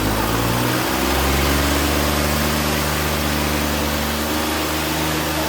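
Tractor diesel engine running steadily, its note shifting once about a second in and then holding.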